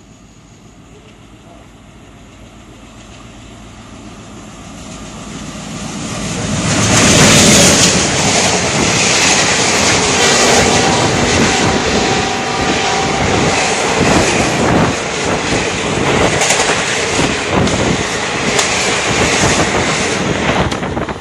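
Express passenger train approaching at speed and passing close by: the noise builds for about seven seconds as the locomotive nears and goes by, then the coaches rush past with fast, rhythmic wheel clatter over the rail joints.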